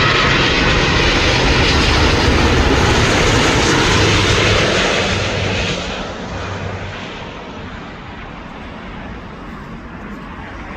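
Jet airliner passing low overhead on final approach, its engines loud and steady, then fading away about six seconds in.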